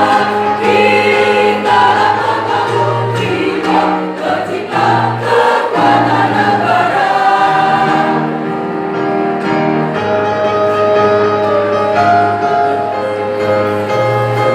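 A choir singing in harmony, holding sustained chords that change every second or two over a low sustained bass line.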